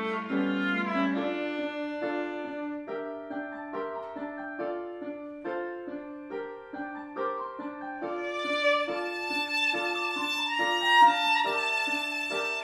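Instrumental music: a violin melody over short, evenly repeated accompanying chords, with a higher, brighter violin line coming in about eight seconds in.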